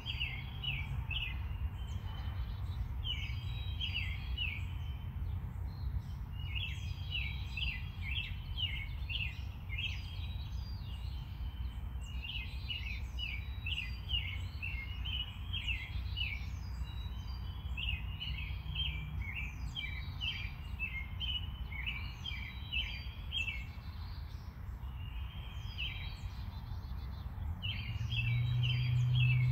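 A small bird chirping in quick bursts of short high notes, phrase after phrase with short pauses, over a steady low hum that gets louder near the end.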